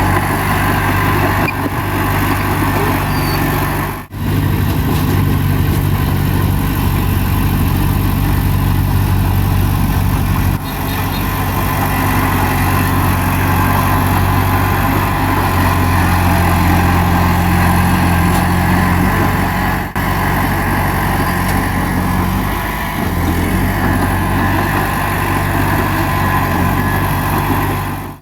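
Bulldozer's diesel engine running steadily, with brief drops in level about 4, 10 and 20 seconds in.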